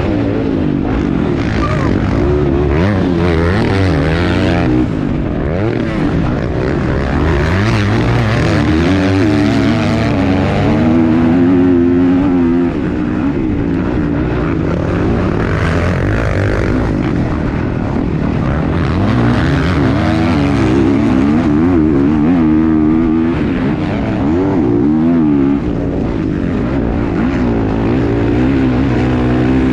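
Motocross dirt bike engine revving hard and backing off again and again, its pitch climbing and dropping as the rider works the throttle around the track.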